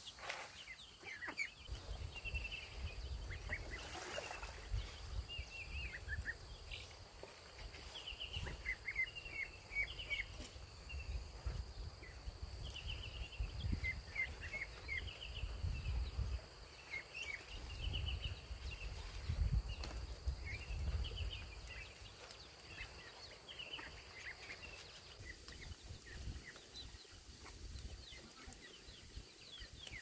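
Birds chirping: many short, quick calls repeated over and over, fading out near the end, over a low rumble.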